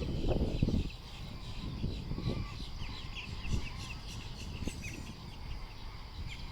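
A flock of birds calling, many short high chirps overlapping without pause, with a louder low burst during the first second.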